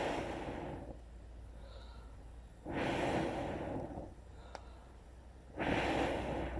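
A person blowing on a freshly lit campfire to feed air to the kindling: three long breathy blows about three seconds apart. A single sharp snap comes between the second and third.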